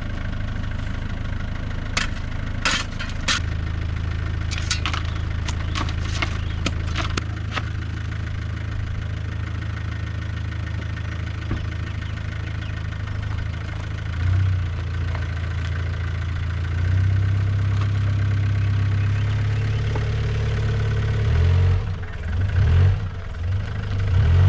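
4WD engine idling steadily, with a run of sharp clicks and knocks in the first several seconds. The revs rise briefly about halfway through, then again for several seconds as the bogged vehicle climbs out of the muddy hole.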